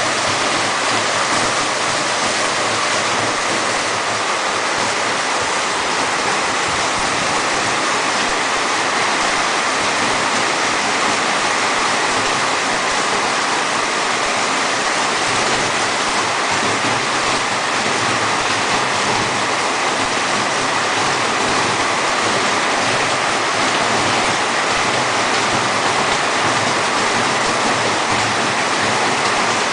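Rushing water in a heavy rainstorm: a loud, steady, even rush with no let-up.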